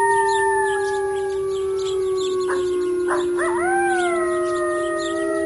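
Wolves howling: one long, steady howl, joined about three seconds in by a second, higher howl that rises and then levels off.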